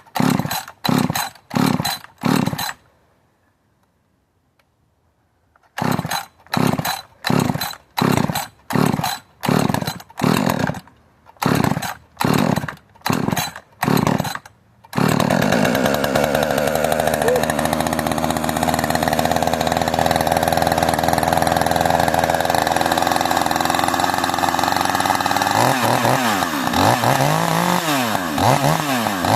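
Rebuilt Husqvarna 562 two-stroke chainsaw firing in short, even bursts about twice a second, falling silent for about three seconds, then bursting again. About halfway through it catches and runs steadily at high revs, and near the end it is revved up and down several times. The engine is fresh from a rebuild with a ported cylinder and has been reluctant to idle.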